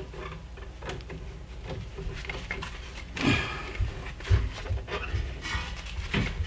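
Scattered light knocks and clicks of a brake caliper and its hanger wire being handled, with a short scrape a little over three seconds in.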